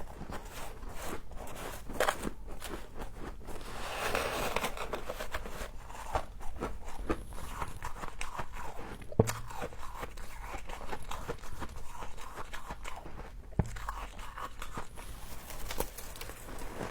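Frost being bitten and chewed close to the microphone: a steady run of crunches, with a denser grinding stretch about four seconds in and two sharp snaps around the middle.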